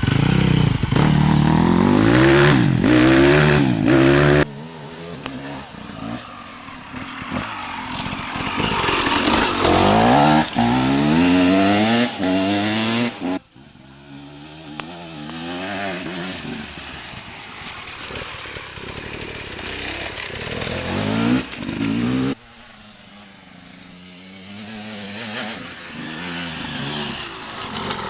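Dirt bike engines revving up and dropping back again and again, the pitch sweeping up and down. The sound breaks off suddenly three times, changing level each time.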